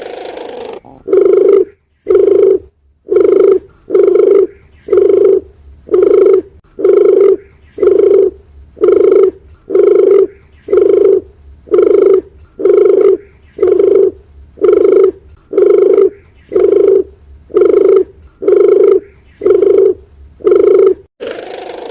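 Dove cooing: a short, low coo repeated evenly about once a second, some twenty times, with a longer, rougher call at the start and again near the end.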